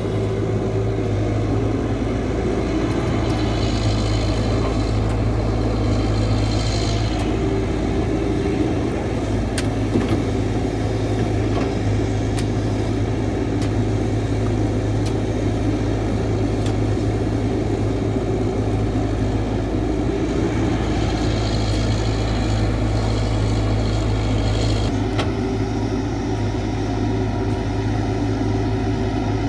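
Caterpillar 312 excavator's diesel engine running steadily while it digs soil, with two stretches of higher hiss, about three seconds in and again past twenty seconds.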